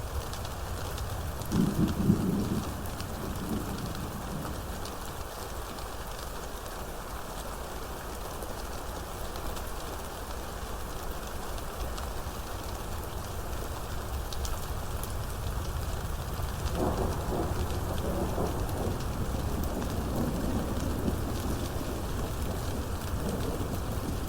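Steady rain with thunder: a short, loud rumble about two seconds in, then a longer, softer rumble in the second half.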